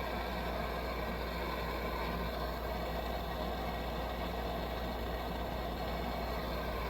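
Coleman 523 military pressurized-gasoline stove burner running with a steady, even noise. The generator is picking up fuel, but the owner suspects it is a little funky.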